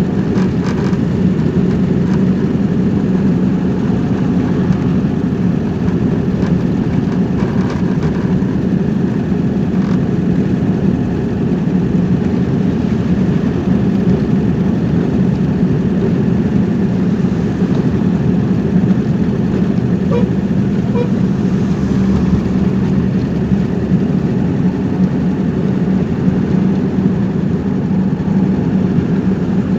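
Steady engine and road noise of a car driving along at an even pace.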